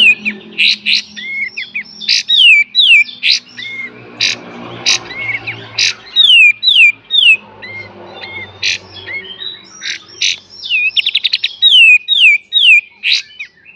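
A kapas tembak songbird singing: series of sharp, quickly falling whistled notes in runs of two to four, mixed with short sharp chips and a fast rattling trill about eleven seconds in.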